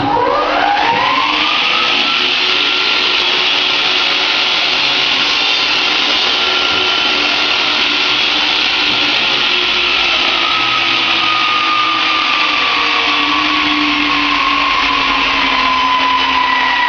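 Electric power tool motor spinning up with a rising whine in the first second, then running steadily and loudly. Its pitch sags gradually in the second half, as if under load.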